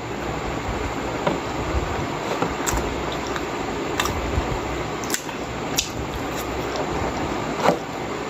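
A person eating steamed pork momos by hand: chewing and mouth sounds, with a few short sharp smacks or clicks spaced a second or so apart, over a steady background hiss.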